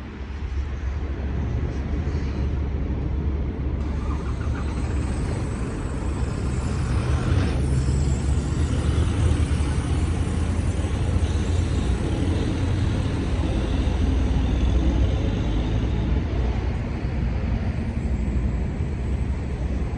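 Steady low rumble of heavy-truck engines running, with a wide hiss over it that grows a little louder about seven seconds in.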